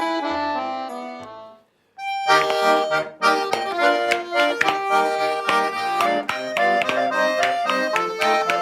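Garmon (Russian button accordion) playing. A few held chords fade away over the first second and a half. After a brief pause, a lively folk tune with a bass accompaniment starts about two seconds in.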